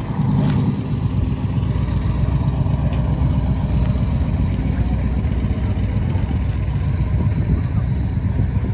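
A vehicle engine idling steadily, a loud, even low throb that does not change.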